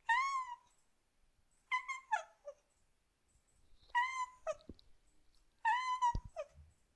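A cat meowing: four short, high-pitched meows, one about every one and a half to two seconds.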